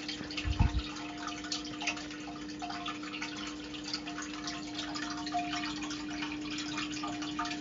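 Underwater ambience on a coral reef: a dense, continuous crackle of fine clicks over a steady hum, with a low bubbly thump about half a second in.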